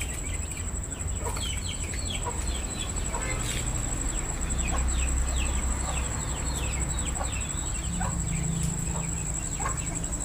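Backyard chickens calling: many short, falling peeps come several a second, with lower clucks about once a second. A steady high-pitched whine and a low rumble lie under them throughout.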